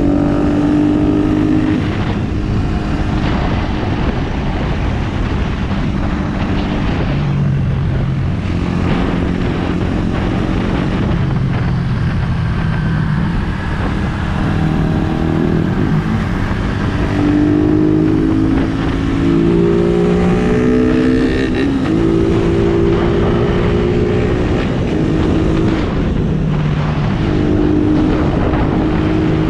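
Suzuki Raider R150's single-cylinder four-stroke engine riding through traffic, its pitch rising under throttle and dropping at each gear change or roll-off, again and again, over a steady rush of road and wind noise.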